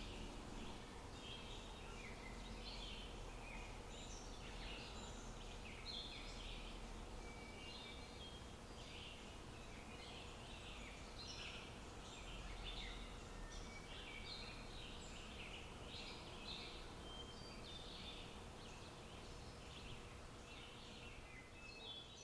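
Small birds chirping faintly, many short irregular calls, over a steady low background hum.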